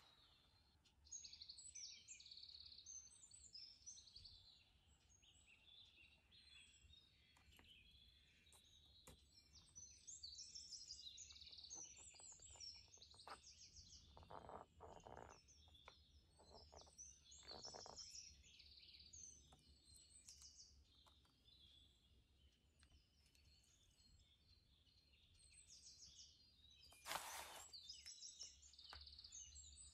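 Faint birdsong: small birds chirping and twittering over a low steady hum, with a few soft rustles around the middle and a short louder rustle near the end.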